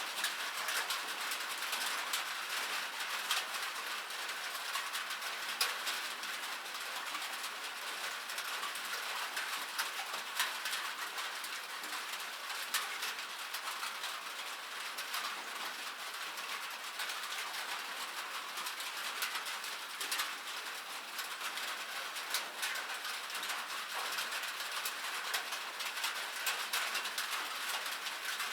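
Rain falling on metal, a steady bright hiss dotted with many sharp ticks of individual drops striking the sheet.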